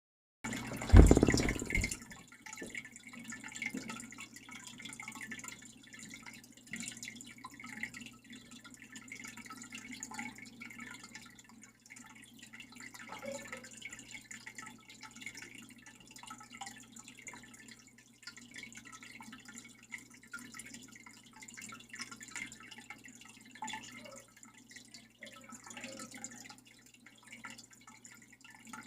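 Water trickling and dripping, a steady patter of small irregular drops and splashes, after a loud knock about a second in.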